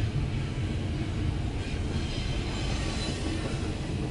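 CSX double-stack intermodal freight train rolling past close by: a steady heavy rumble of well cars and their wheels on the rails, with a faint high wheel squeal from about a second and a half in.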